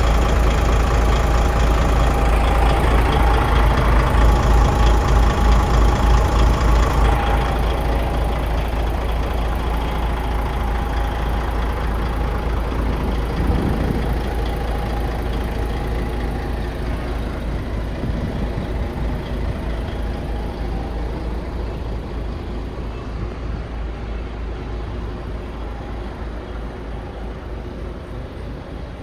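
DAF CF 85.360 truck's diesel engine running with a steady low throb, a little louder over the first several seconds and then slowly fading.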